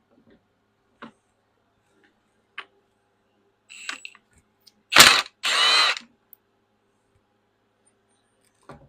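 Work on a hydraulic control valve: a few light clicks of parts being handled, then a sharp knock about five seconds in, followed by a brief rapid rasping clicking lasting about half a second.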